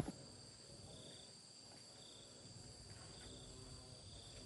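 Faint insect chorus: a steady high-pitched drone with short chirps repeating about once a second.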